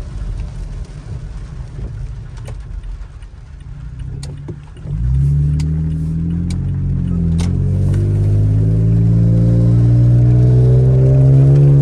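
A 2018 Toyota Tacoma's 3.5-litre V6 through a FlowMaster FlowFX straight-through cat-back exhaust, heard from inside the cab. It rumbles low while stopped, then about five seconds in it pulls away under throttle, and its drone climbs steadily in pitch.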